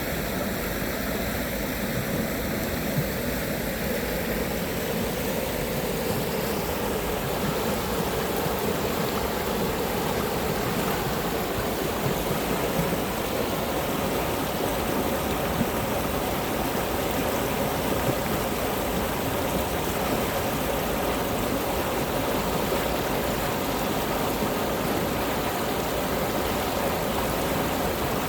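Cheonggyecheon's urban stream running after rain, a steady rushing of flowing water. A faint high hum fades out in the first few seconds.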